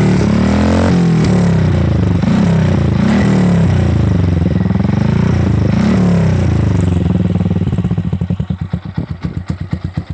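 Yamaha New Jupiter MX's 135 cc single-cylinder four-stroke engine breathing through an R9 New Mugello aftermarket racing exhaust with its dB killer fitted, being revved up and down repeatedly. About seven seconds in it drops back to idle, each exhaust pulse heard as a separate thud.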